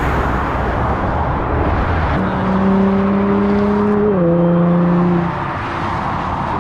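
Freeway traffic rushing past. A passing vehicle adds a steady hum that drops in pitch about four seconds in as it goes by, then fades about a second later.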